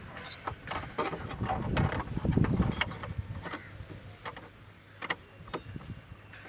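Irregular metallic clicks and knocks of steel reinforcing bar being worked by hand into column stirrups, over a low rumble that swells about two seconds in and fades by the middle.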